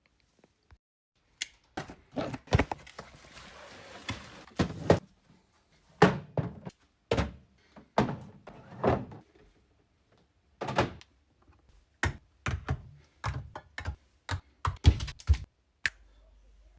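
Containers and groceries being set down and arranged in a fridge: an irregular string of sharp thunks and knocks, with a stretch of rustling about three to four seconds in.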